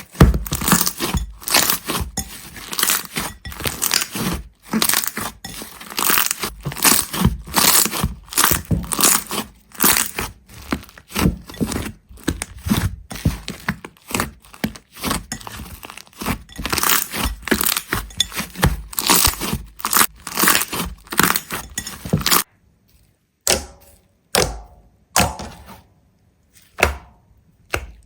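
Rapid, irregular crackling and crunching, like something brittle being broken, crushed or torn. About 22 seconds in, it thins abruptly to separate sharp clicks with silence between them.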